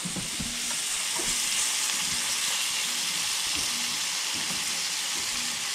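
Coated duck nuggets sizzling steadily in a frying pan, with light clicks of metal tongs against the pan as the pieces are turned.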